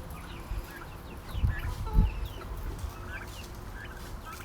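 A flock of chickens clucking, with many short, high, falling peeps scattered throughout. A brief low thump about two seconds in.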